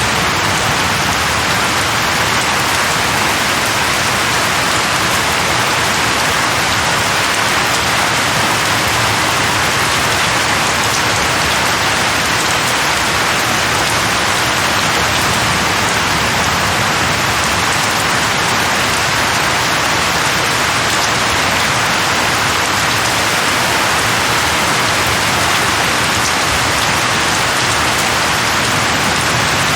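Steady, heavy rain falling on a surface, an even hiss of drops with no letup.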